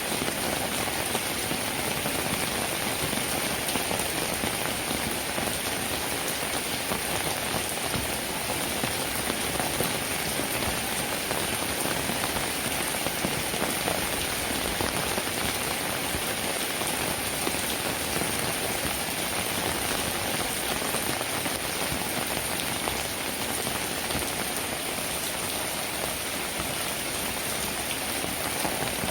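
Steady, even rainfall with dense patter of raindrops on a surface.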